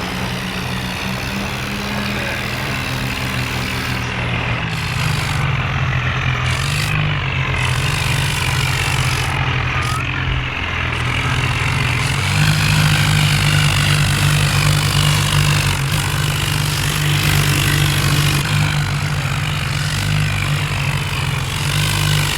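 Heavy diesel engine running, its note shifting and getting louder about halfway through.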